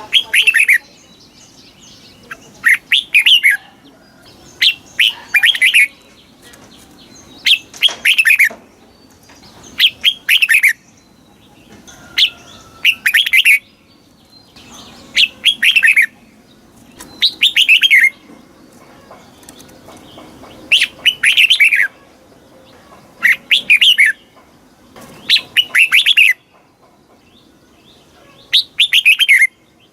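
Red-whiskered bulbul singing. It repeats a short, quick phrase of several whistled notes about every two to three seconds, with brief pauses between phrases.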